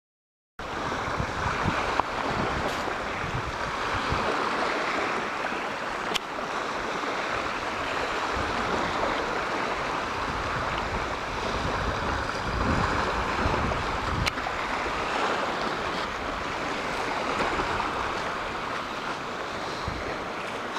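Strong, gusty wind buffeting the microphone and water rushing against a small sailboat's hull, starting suddenly about half a second in, with a few sharp clicks.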